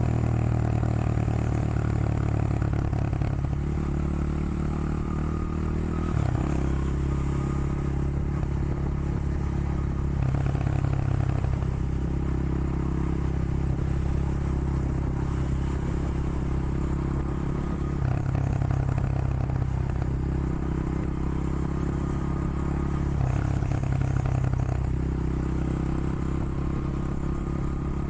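Honda XR100 motard's single-cylinder four-stroke engine running under way, its note stepping up and down every few seconds as engine speed changes.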